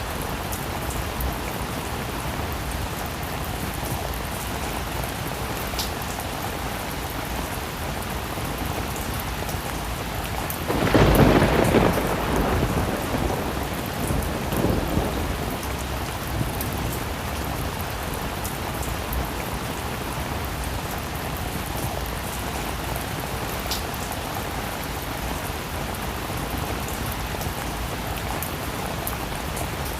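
Steady heavy rain hissing, with a single thunderclap about eleven seconds in that rumbles and fades away over several seconds.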